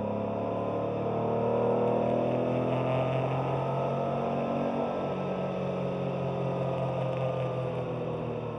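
Porsche 911 Carrera 3.2's air-cooled flat-six running steadily at a gentle cruise, heard from inside the cabin. The engine note climbs a little in the first couple of seconds and then eases off slowly, with a hiss of tyres on the wet track underneath.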